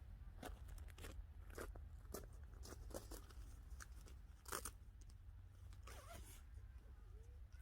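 Faint, scattered clicks and rustles of something being handled, with one louder click about four and a half seconds in.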